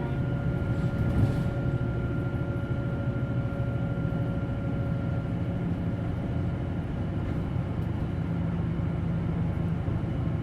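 Interior running sound of a Hino Blue Ribbon City Hybrid bus pulling in to a stop: a steady low drivetrain hum with a thin high whine that fades out about halfway through. A single knock comes about a second in.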